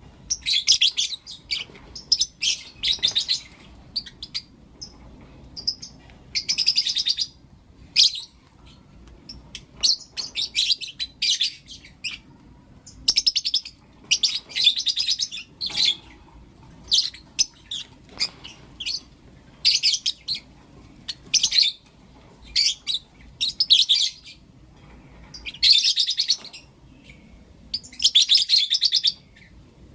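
Lovebirds chirping in rapid, shrill bursts of about a second each, separated by short pauses.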